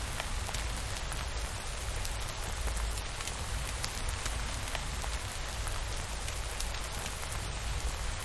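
Steady rain falling, a dense even patter with a low rumble underneath and scattered sharp ticks of individual drops.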